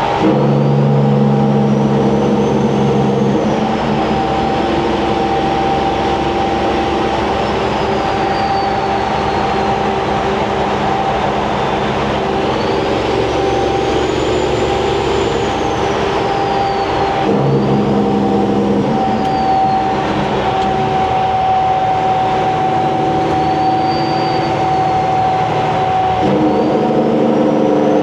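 Semi truck's diesel engine pulling through 8-inch stacks, with a turbo whistle that rises and falls slowly high above the engine note. The engine note changes abruptly twice, about two-thirds of the way through and near the end.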